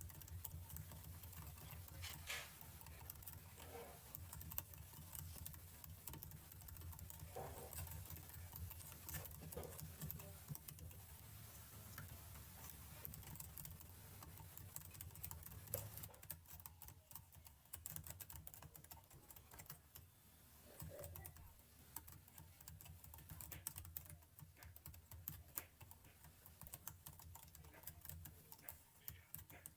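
Faint computer keyboard typing: keys clicking irregularly, over a steady low hum.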